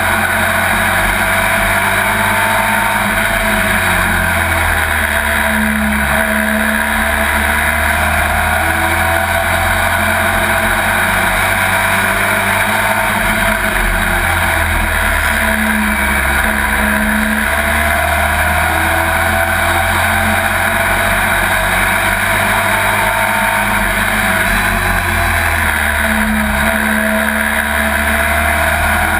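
Pro Truck race truck's engine running hard at racing speed, heard from inside the cab. Its pitch rises and dips a few times over the stretch, without letting up.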